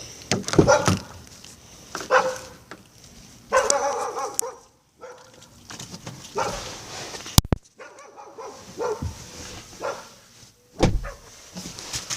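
Siberian husky barking and vocalizing in short bursts, about six times, with a single sharp click about seven seconds in.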